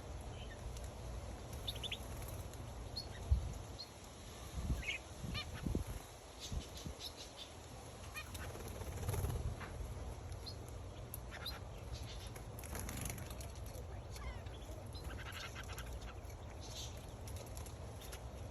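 Small aviary birds chirping and calling in short scattered notes, with wings flapping now and then. There is a sharp thump about three seconds in.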